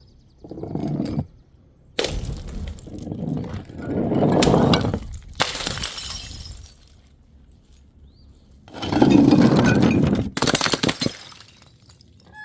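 Glass bottles smashing one after another, several times. Each sudden break is followed by about a second of clinking, scattering shards.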